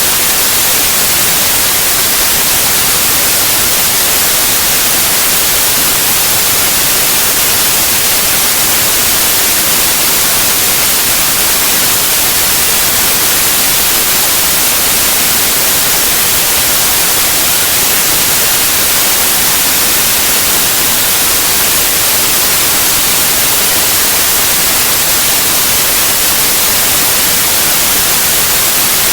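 Steady white noise: an even hiss spread across all pitches, strongest in the highs, with no change or break.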